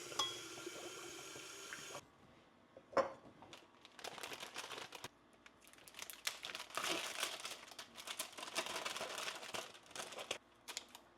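Water running from a tap for about two seconds and stopping, then a sharp knock, then a long stretch of crinkling and rustling like plastic packaging being handled.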